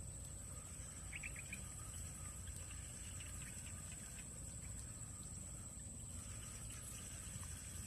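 Faint open-field ambience: a steady high-pitched insect drone, with a quick run of four short bird chirps about a second in and scattered faint chirps after.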